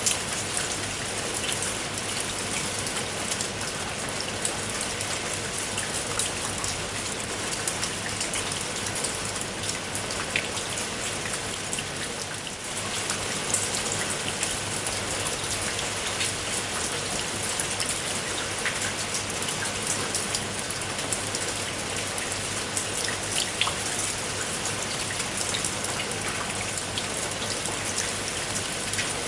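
Steady rain falling on a surface, with many individual raindrops heard as small ticks over an even hiss. The sound dips briefly about twelve seconds in.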